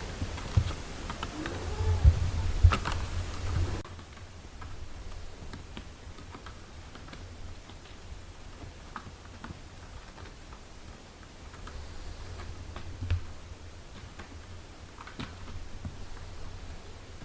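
Newborn kittens mewing faintly, with a few heavy bumps close to the microphone, for the first few seconds. After that the sound drops abruptly to soft, scattered small clicks and rustles.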